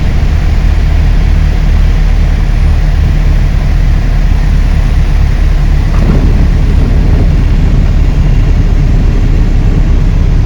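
Cabin noise of a single-engine Piper light aircraft: its piston engine and propeller running steadily as a loud, even, low-pitched drone, heard inside the cockpit.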